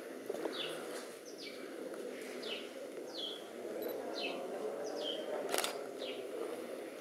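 A bird calling over and over, short downward-sliding chirps about once a second, over a steady low background din. A single sharp click comes a little past halfway.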